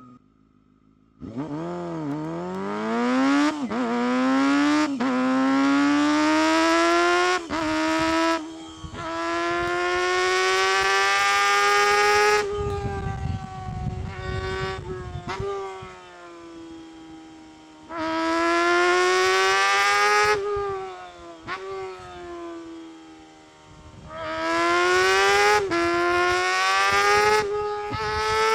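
Honda CBR250RR MC22's inline-four engine revving hard under full throttle, a high-pitched whine climbing through the gears with a sudden dip in pitch at each quick upshift. Between the runs the revs fall away as the throttle closes, then it pulls up to high revs again; it starts after about a second of near silence.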